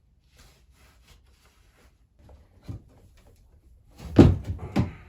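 Faint rustling and handling noise, then a knock about two and a half seconds in and two loud thuds about four seconds in, the kind a drawer, cupboard door or wooden object makes being shut or set down.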